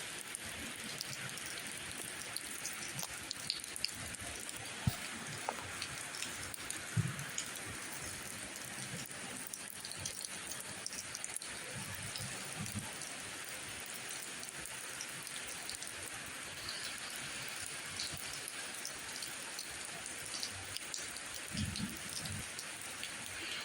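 Steady rainfall, an even hiss of many drops, with scattered single drips and a few heavier low thuds of drops landing.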